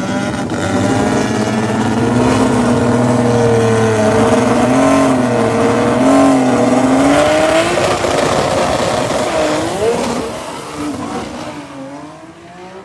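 Drag racing car engine running loud, its pitch wavering up and down, then fading away over the last few seconds.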